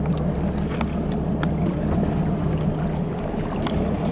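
A boat motor running steadily with a low hum, with scattered light ticks of water over it.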